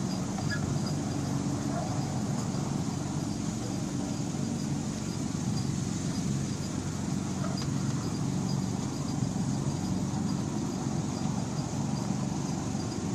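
Miniature railway train running along the track: a steady engine drone with a faint, regular light ticking over it.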